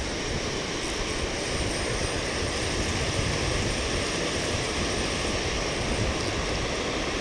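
Steady rush of rain falling on river water, an even hiss with no distinct events.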